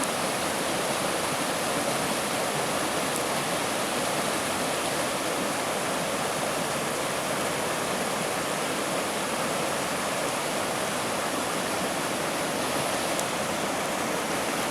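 Hara Fudō Falls pouring steadily: an unbroken rush of falling water.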